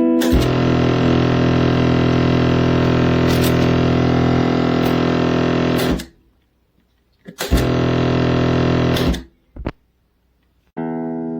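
Electric guitar played through the Donner Verb Square reverb pedal: a long sustained chord that cuts off sharply about six seconds in, a shorter chord that also stops abruptly, then a chord ringing out near the end.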